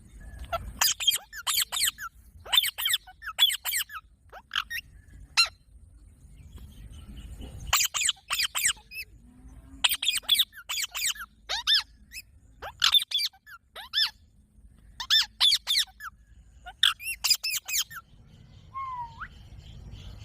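Green parrot calling: short, high, shrill calls in quick groups of two to four, with pauses between the groups and a single falling note near the end.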